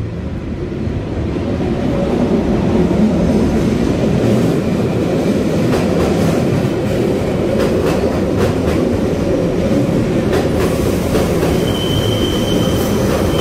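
Red metre-gauge Matterhorn Gotthard Bahn train running through a stone-walled gallery: a loud, steady wheel-and-rail rumble builds over the first couple of seconds. Irregular sharp clacks of wheels over rail joints come through the middle. A high, steady wheel squeal sets in near the end.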